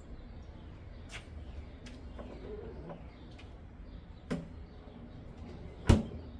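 A few sharp clicks and knocks, with a louder knock a little past four seconds and the loudest one near the end, over a steady low hum and faint bird chirps.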